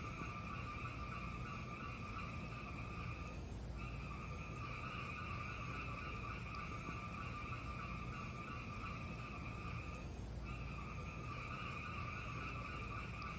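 Fireplace sound: a steady low rumble under a sustained, two-tone whistling hiss, which breaks off for half a second twice, a few seconds in and again later on.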